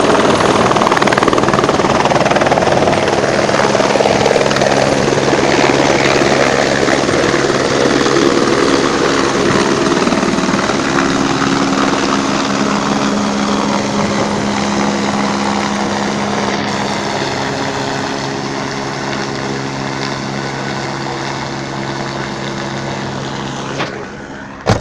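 Helicopter running close by: loud rotor noise with a steady hum, slowly growing fainter, then cutting off abruptly near the end.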